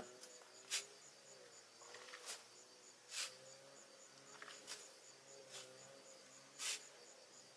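Insects chirping in a steady, even rhythm of about three high chirps a second. Several short, sharp rasping noises from something unseen stand out above them at irregular intervals.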